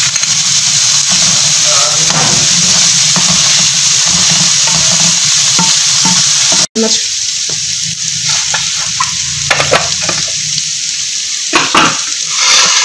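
Vegetable stuffing of peas, potatoes and cabbage sizzling as it fries in oil in a pan, stirred and scraped with a wooden spatula. The sound drops out for an instant about halfway through, after which the sizzle is quieter and several spatula scrapes stand out near the end.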